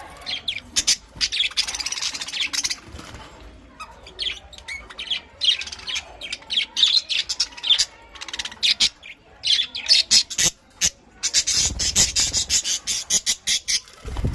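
A colony of budgerigars chirping and chattering at once, in spells of dense, high-pitched calls with brief lulls.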